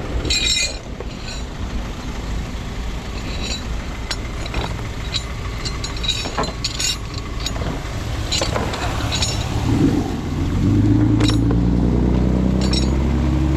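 Truck engine running at idle with scattered clicks and knocks over it. About ten seconds in, a louder, steady, deeper hum sets in and holds.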